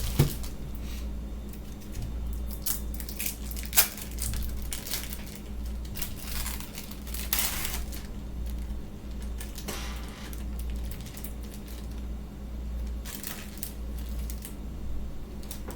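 Plastic cheese wrapper crinkling and tearing in short scattered bursts, with a few sharp ticks, over a steady low hum.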